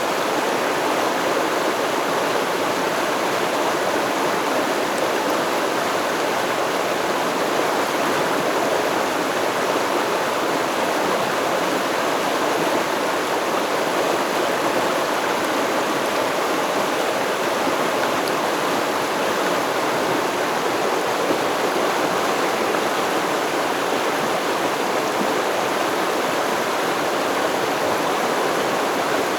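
Stream water flowing and babbling steadily over rocks, an even rushing wash of water with no change in level.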